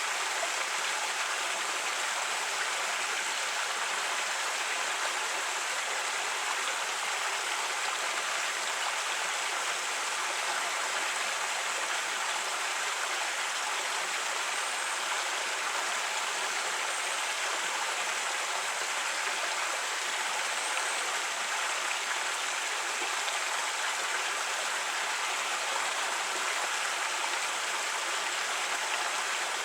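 Creek water running and splashing over rocks in a steady, unbroken rush.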